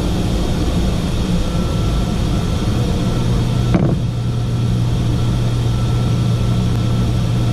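Steady cockpit noise of a Learjet 45XR in flight: rushing airflow and engine sound with a low steady hum. A short click comes about four seconds in, after which the hum is steadier and stronger.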